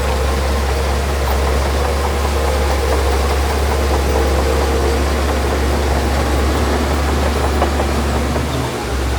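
Heavy diesel engine of earthmoving machinery running steadily, with a deep low drone and a brief dip near the end.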